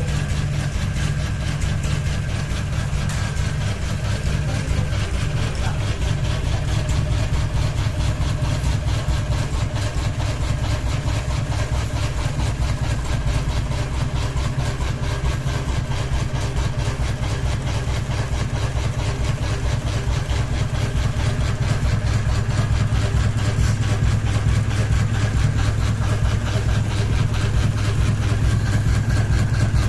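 Ceiling fan running with only one blade, wobbling off balance: a steady low hum with a rapid, even pulsing.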